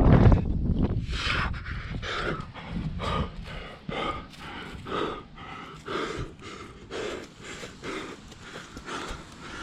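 A rock climber breathing hard with exertion, short heavy breaths about once a second, close to the microphone. There is a loud low rumble on the microphone at the start.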